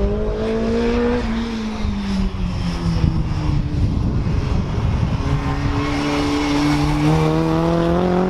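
BriSCA F2 stock car engine on track: revs rise, ease off about a second in and drop for a couple of seconds, then pick up again and climb steadily through the second half.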